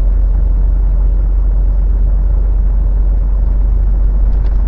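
Steady low rumble of a semi truck driving at about 50 km/h, engine and road noise heard from inside the cab.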